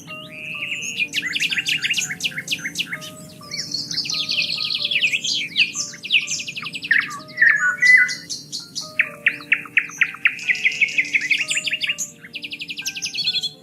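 Dense birdsong: several birds chirping and trilling rapidly, one song overlapping the next, over soft background music of long held low notes.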